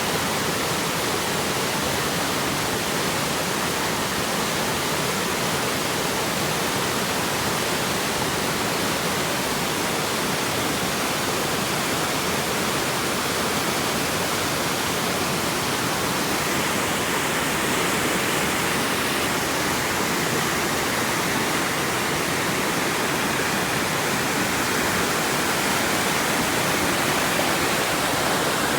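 A fast river rushing steadily, a constant roar of moving water with no breaks.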